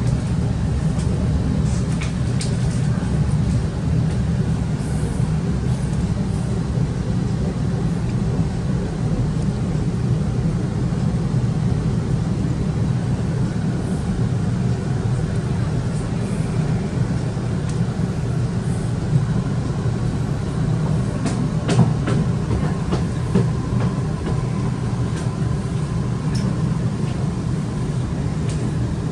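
Steady low rumble of an electric suburban train carriage in motion as it pulls into the station, with a few sharp clicks in the second half and a faint steady tone in the last third.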